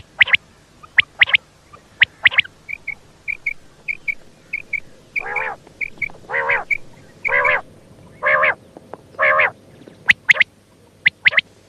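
Female common quail calling. Sharp, closely paired high notes alternate with a run of soft short notes. Five longer, harsher notes follow about a second apart in the middle, and the paired sharp notes return near the end.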